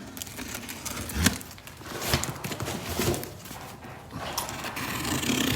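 A cardboard shipping box being handled and opened: tape pulled and torn off, with scattered knocks and scrapes against the cardboard.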